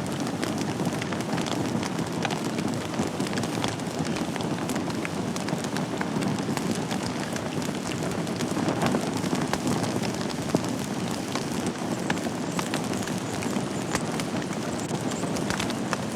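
Wood fire burning in a fireplace: a steady low rush of flames with frequent small crackles and pops, and one sharper pop about ten seconds in.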